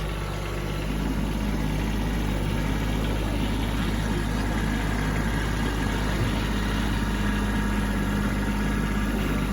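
Kubota B2601 compact tractor's three-cylinder diesel engine running steadily, a little louder from about a second in.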